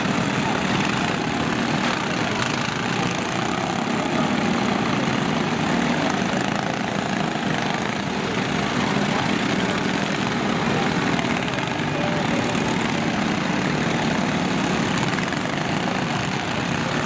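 Lawn tractor engines running steadily together.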